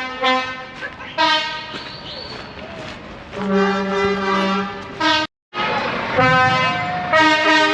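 Lorry air horns sounding in a run of about five short blasts, several horns at different pitches, the longest lasting just over a second in the middle.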